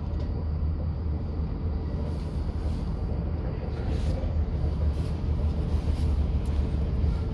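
Steady low rumble of a commuter train in motion, heard from inside the passenger car. A few faint, light clicks sound over it.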